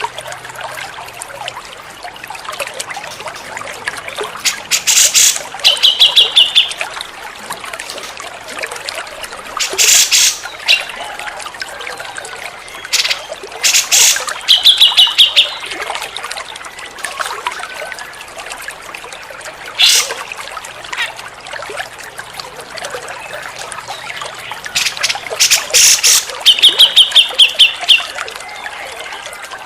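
Cucak jenggot (grey-cheeked bulbul) song played for bird training: loud, harsh bouts every few seconds, several ending in a fast run of repeated high notes. Running water trickles steadily underneath.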